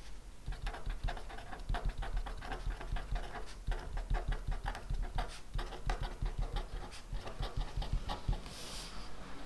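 Pen writing on paper: quick, irregular scratching strokes and taps, with a short brushing hiss near the end.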